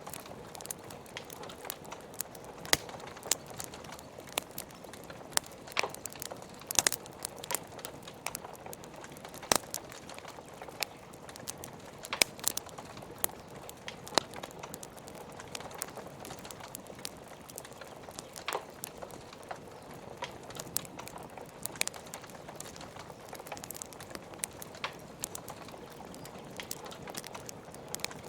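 Wood logs burning in a fireplace, crackling with irregular sharp pops, some loud, over a steady hiss of rain.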